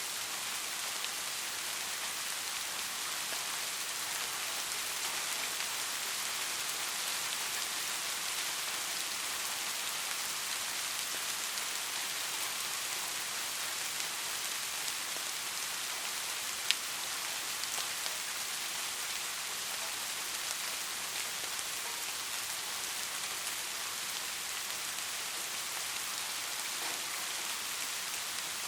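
Light rain falling steadily: an even hiss of drops with faint scattered ticks, and one sharper tick about two-thirds of the way through.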